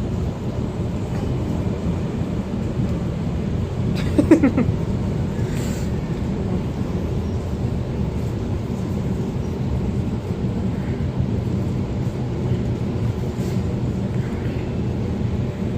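Steady low rumble of a moving suburban passenger train heard from inside the carriage. About four seconds in, a short pitched sound with a slight downward slide rises briefly above the rumble.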